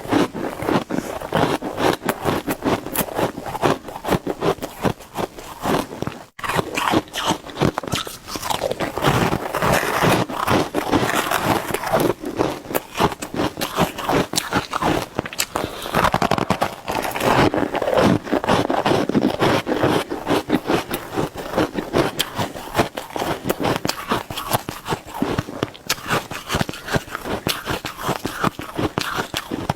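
Shaved ice being bitten and chewed in big, fast bites: a dense, unbroken run of crunching and scraping, with a momentary gap about six seconds in.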